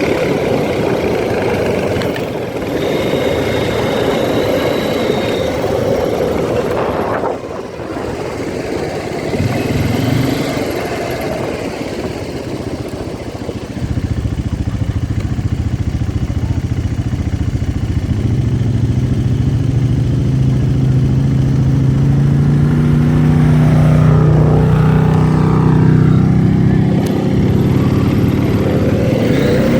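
ATV engine running under way, its note climbing steadily in pitch through the second half as it accelerates.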